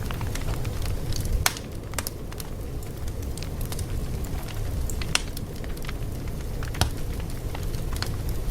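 Fire crackling: irregular sharp pops and snaps over a steady low rumble, with a few louder pops scattered through.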